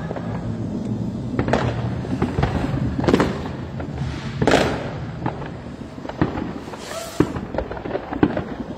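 New Year's fireworks going off: four loud bangs about one and a half seconds apart, then smaller sharp cracks near the end, over a continuous background of more bangs and crackling.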